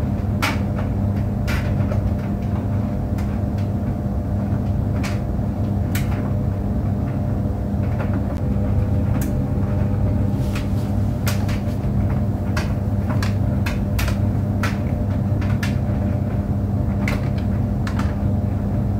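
Tumble clothes dryer running: a steady low hum from the motor and drum, with irregular light clicks and knocks every second or so as the load tumbles.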